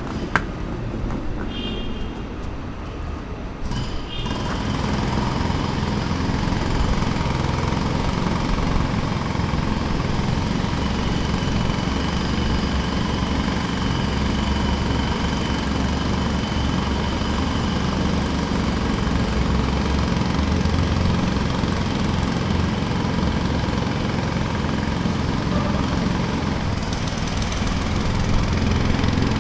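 Jackhammer hammering continuously in a rapid, steady rattle, starting about four seconds in after a quieter stretch with a sharp click.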